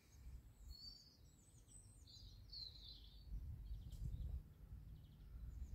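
Faint birdsong, a run of quick high chirps during the first three seconds, over a low steady outdoor rumble.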